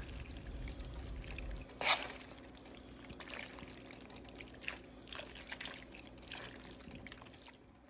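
Cooked fettuccine noodles being added to and tossed in a creamy Alfredo sauce in a pan: faint wet squelching and dripping with light utensil clicks, one sharper click about two seconds in.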